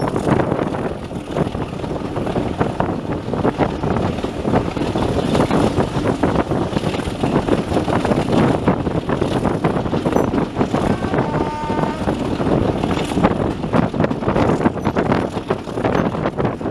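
Steady rumbling and rattling of a moving vehicle, with wind buffeting the microphone. A short faint high tone sounds about eleven seconds in.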